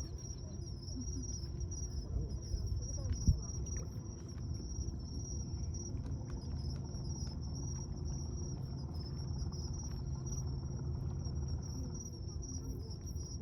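Night insects chirring in a steady, unbroken high trill, over a low background rumble, with one short knock about three seconds in.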